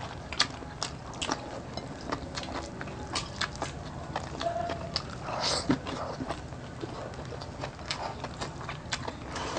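Close-miked eating sounds of people chewing pork steak and rice: many short mouth smacks and clicks, with one louder noisy burst a little past halfway.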